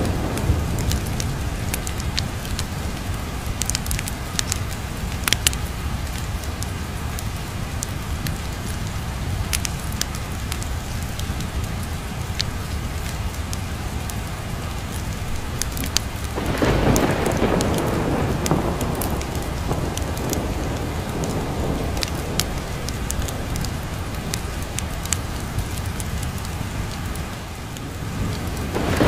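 Steady heavy rain with a continuous low rumble of thunder and scattered sharp ticks. A louder roll of thunder swells in a little past halfway and fades over a few seconds.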